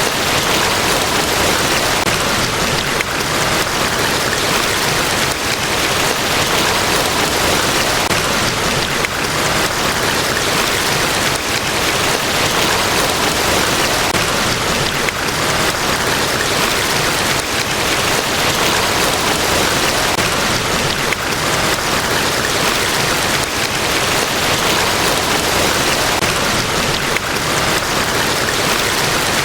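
Niagara Falls: a large waterfall's water pouring down in a steady, even rush without breaks.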